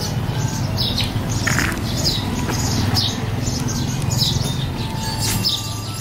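Small birds chirping: repeated short, high chirps that fall in pitch, roughly one or two a second, over a steady low rumble.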